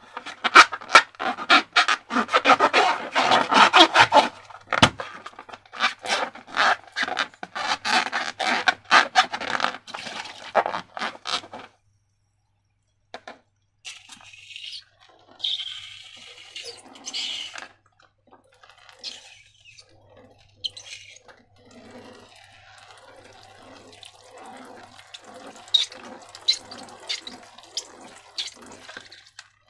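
Wet slime squelching with many quick sticky crackles and pops, dense for about twelve seconds. After a brief break it comes back as slower, separate squelches.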